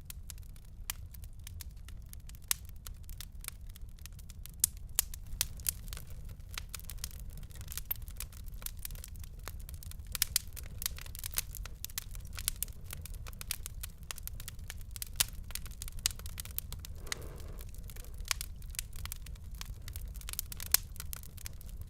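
Wood fire burning in a fireplace, with a steady low rumble and frequent irregular crackles and a few sharper pops.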